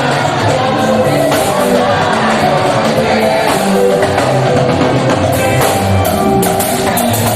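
Live church choir music: singing over a band with guitar and drums, playing steadily.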